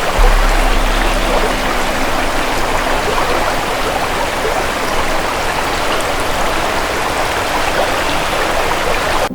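Steady rushing and splashing of a flowing stream, an even water noise throughout, with a brief low hum under it in the first couple of seconds.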